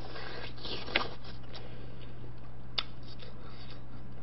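Close-mic eating: teeth tearing and chewing boiled chicken drumstick meat off the bone, with a few small wet clicks, the sharpest about a second in and another near three seconds, over a steady low hum.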